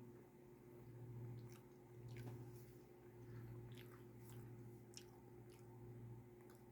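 Faint chewing of a soft pretzel bite dipped in jalapeño cheddar sauce, in a slow steady rhythm of about one chew a second, with a few small wet mouth clicks.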